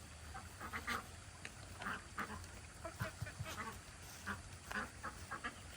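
Ducks quacking: a run of short, irregular quacks, roughly two a second.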